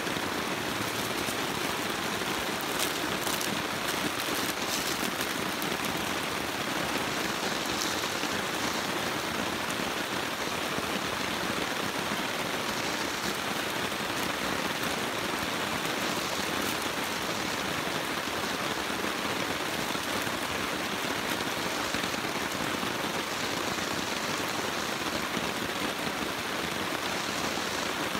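Steady rain falling, an even hiss with a few sharp ticks about three to five seconds in.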